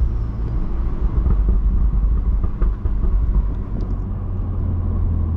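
BMW F30 335i's turbocharged inline-six engine and catless-downpipe exhaust running with a steady, deep rumble.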